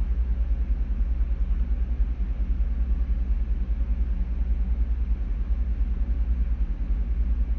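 Ship's engine-room machinery running: a steady low rumble of diesel engines and pumps, with a fast, even throb.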